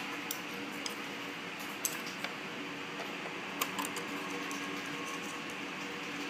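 A few scattered light clicks and taps of small parts and tools being handled during disassembly, over a steady hiss with a faint hum.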